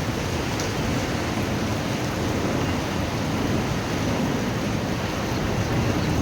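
Steady rain falling during a thunderstorm, with a low rumble of thunder underneath.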